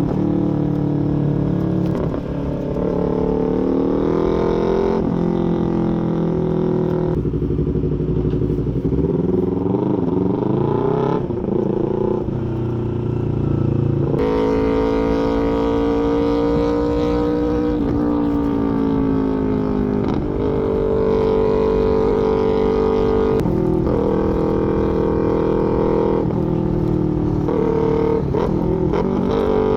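Small parallel-twin sport motorcycle engine on a full aftermarket exhaust, ridden under way: the revs climb and fall repeatedly, with several sudden pitch jumps as it changes gear.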